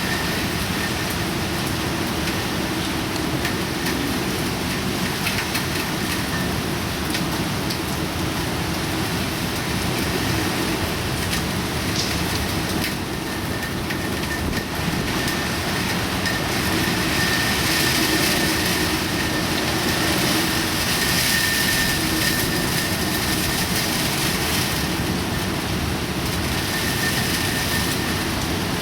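Typhoon rain and wind: a steady, even rushing noise that grows somewhat louder about halfway through. A faint thin whistle comes and goes over it.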